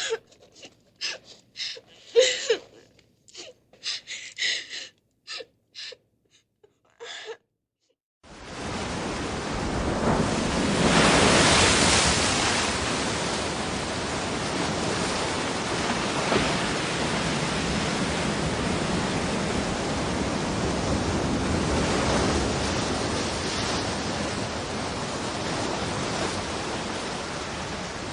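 A person crying in short, catching sobs and gasps for about seven seconds. Then, after a brief pause, a steady rushing noise fades in, swells a few seconds later and carries on evenly.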